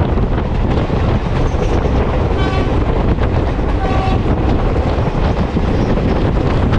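Passenger train running at speed, a loud steady rumble and rush of wheels and air, with two short toots of a train horn about a second and a half apart.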